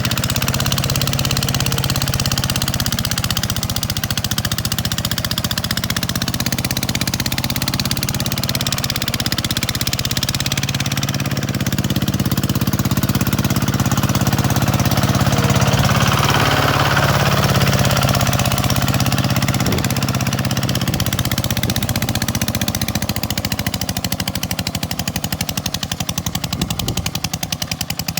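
Diesel tractor engine running steadily with a rapid, knocking clatter, getting somewhat louder about halfway through and easing off near the end.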